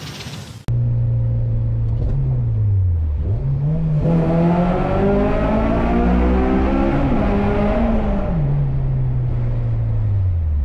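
A car engine revving: it starts suddenly under a second in, dips and climbs in pitch, rises higher through the middle and falls back near the end.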